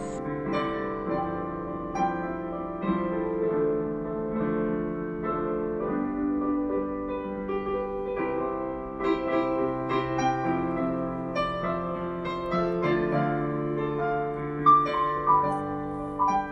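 Piano music: a melody of separate notes over held lower notes.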